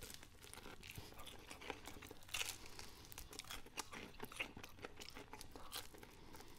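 Popeyes crispy fried chicken being bitten and chewed, the breading crunching in a scatter of crackly clicks. There are louder clusters of crunches about two and a half seconds in and again around four and a half seconds.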